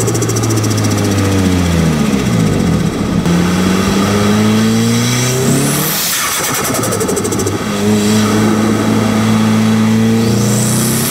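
Nissan Silvia S15's turbocharged SR20DET engine, heard from right at the turbo while driving. Revs fall with a chattering turbo flutter about a second in, then climb again. Twice, about halfway and near the end, a high turbo whistle rises as the turbo spools.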